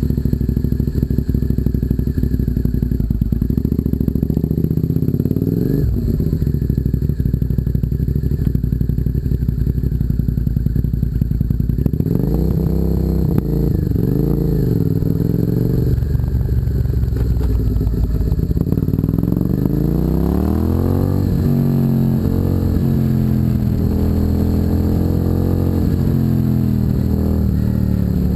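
Suzuki SV650's V-twin running through a custom exhaust just after starting: a steady low idle, blipped several times so the note rises and falls, with a longer wavering rev partway through and another about two-thirds of the way in.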